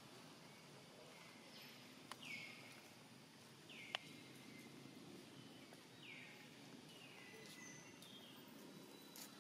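Faint forest ambience in which a bird repeats a short, high call that falls in pitch, about every two seconds. Two sharp clicks come about two and four seconds in.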